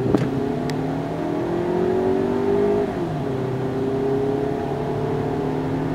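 2011 Scion xB's four-cylinder engine accelerating under throttle, heard from inside the cabin. Its pitch climbs, drops sharply about three seconds in as the transmission shifts up, then climbs again.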